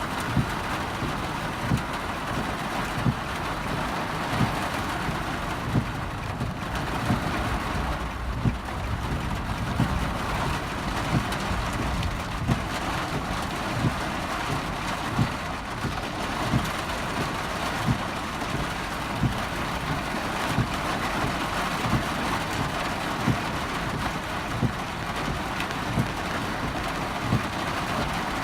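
Torrential rain drumming on a car's roof and glass, heard from inside the cabin: a steady, dense hiss. A short low thump comes through it at regular intervals, a little over once a second.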